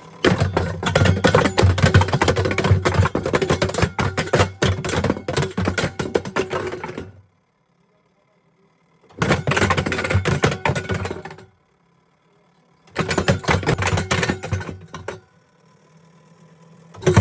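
Rapid, irregular clattering and knocking of a kettle tumbling inside a running washing machine drum, over the machine's low hum. It comes in three stretches, the first about seven seconds long, each cut off abruptly into silence.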